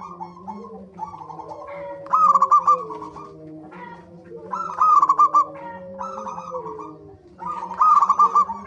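Zebra doves (perkutut) cooing, each loud trilled phrase repeated about every three seconds, with softer overlapping calls between them.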